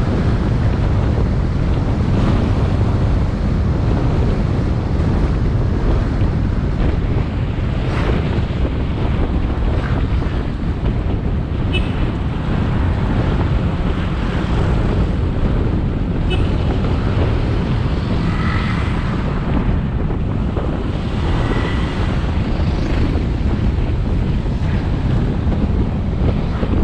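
Wind rushing over the microphone of a moving motorbike, with the bike's engine and road noise running steadily beneath it. A few brief clicks, and twice in the second half a short faint high tone.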